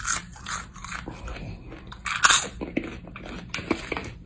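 Close-up biting and crunchy chewing of fresh red tail scorpion chili peppers, a string of uneven crunches with the loudest a little past halfway.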